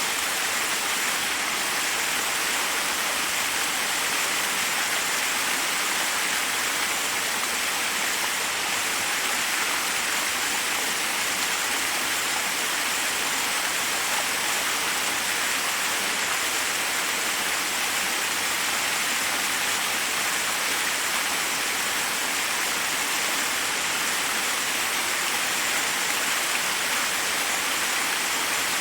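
Forest waterfall: water cascading over rocks in a steady, unbroken rush.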